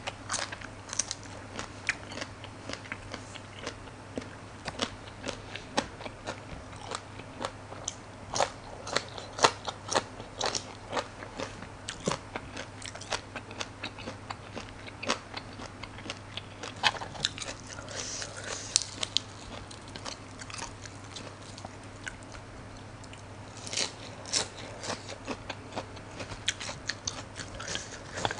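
Close-miked eating sounds: biting and chewing crisp raw vegetable stalks, with many irregular sharp crunches and wet chewing as she eats blood cockles with the fresh greens.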